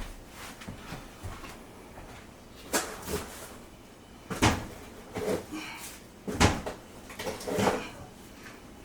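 Cupboard doors being opened and shut: a series of sharp knocks and clunks, the loudest about four and a half and six and a half seconds in.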